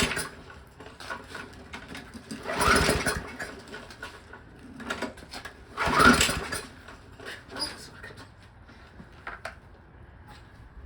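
Recoil starter rope on a Craftsman 5.5 HP Briggs & Stratton lawnmower engine pulled three times, about three seconds apart, each pull a short whirring rattle; the freshly primed engine turns over but does not catch.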